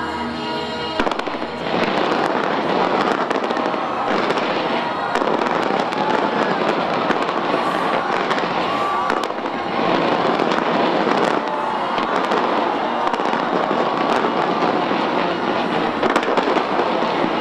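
Fireworks display: a dense, continuous crackle of bursting shells and popping that starts about a second in and carries on without a break.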